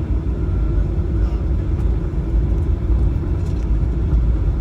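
Cabin noise of a Boeing 737-900 taxiing: a steady low rumble from its CFM56 engines at idle and the wheels rolling along the taxiway, with a few faint ticks.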